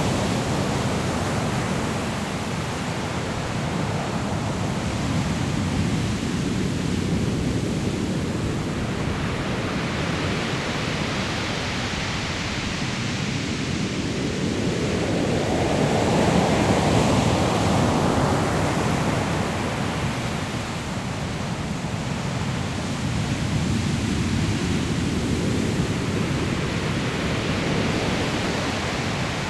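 Sea waves breaking on a pebble shore: a continuous rush of surf that swells and ebbs every several seconds, with the biggest surge about halfway through.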